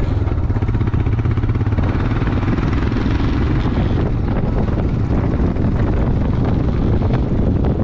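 Steady, loud engine drone of a moving vehicle with wind rushing over the microphone.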